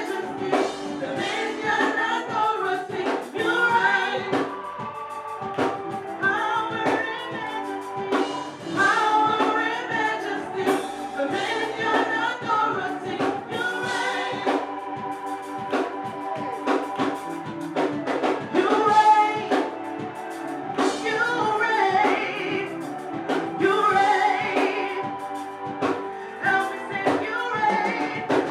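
Gospel choir singing a praise song with organ or keyboard chords and a drum kit keeping a steady beat.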